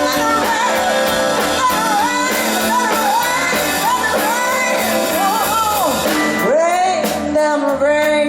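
Live blues band with a woman singing in a strong voice, her notes sliding and bending in long runs, with a deep swoop down and back up about six and a half seconds in.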